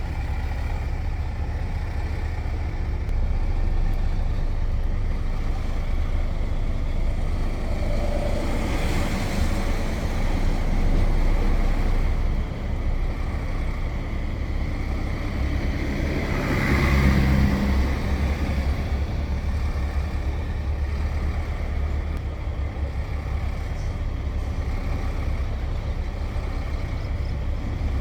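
Truck's diesel engine running steadily under way, a deep low drone with tyre and road noise over it. It swells louder twice, about nine and about seventeen seconds in.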